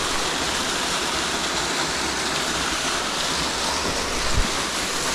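Waterfall rushing: a loud, steady, even hiss of falling water, with a brief low bump about four seconds in.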